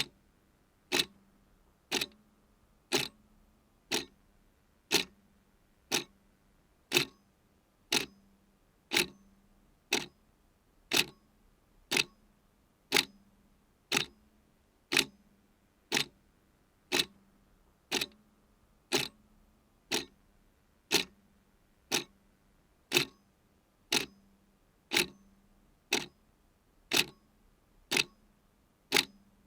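Clock ticking steadily, one sharp tick a second, alternating slightly louder and softer in a tick-tock pattern, over a faint low hum.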